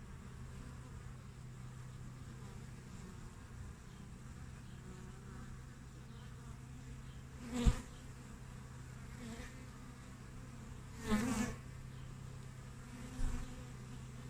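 Honeybees humming at the hive entrance, a steady low buzz of many bees, with three bees buzzing loudly close past the microphone about halfway through, again after about eleven seconds and near the end; the first pass ends in a sharp tap.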